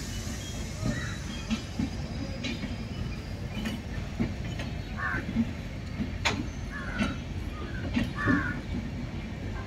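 LHB passenger coaches of an Indian express train rolling past: a steady rumble of wheels on the rails, broken by irregular sharp clanks from the wheels and running gear, the loudest about six seconds in.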